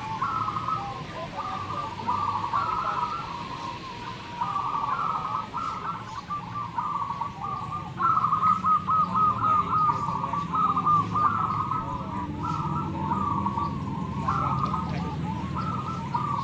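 Many zebra doves (perkutut) cooing at once, their rolling staccato coo phrases overlapping without a break over a low background murmur.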